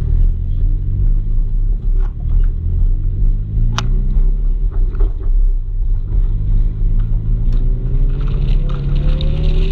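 Car engine running with a deep rumble, its pitch rising steadily over the last few seconds as it revs up; a single sharp click about four seconds in.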